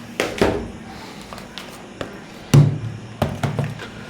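Books being handled and set down on a surface: a string of sharp taps and knocks, with one heavier thump about two and a half seconds in.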